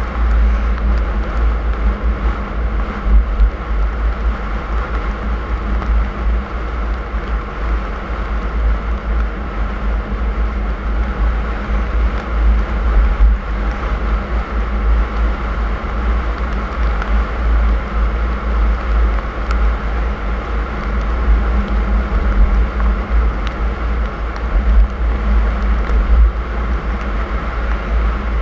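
Car driving on snowy roads: a steady low rumble of engine and tyre noise that holds even throughout.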